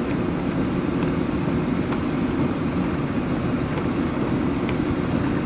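Steady rumble of a car driving slowly, engine and road noise heard from inside the cabin.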